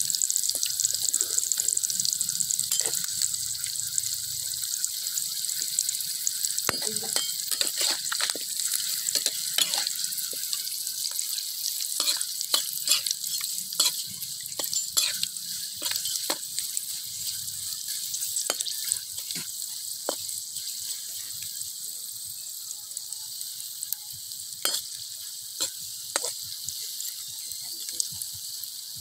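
Scorpions and centipedes frying in hot oil in a metal wok, sizzling steadily, with a metal spatula scraping and clinking against the wok many times as they are stirred.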